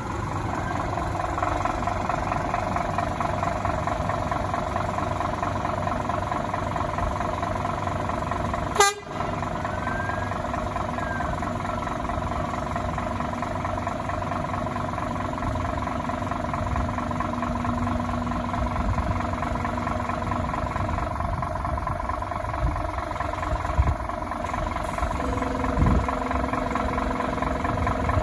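Fire engine's diesel engine running steadily, heard from inside the cab, with a sharp click about nine seconds in.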